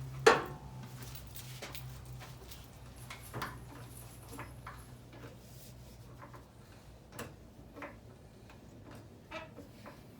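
A sharp knock just after the start, then sparse faint clicks and knocks, with a low steady hum that fades out over the first few seconds.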